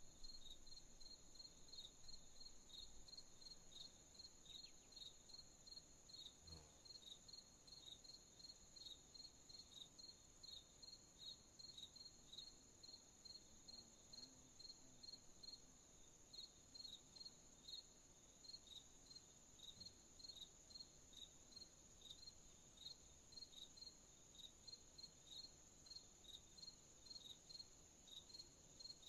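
Faint crickets chirping: a steady high trill with regular chirps from another cricket over it, about two a second, pausing briefly about halfway through.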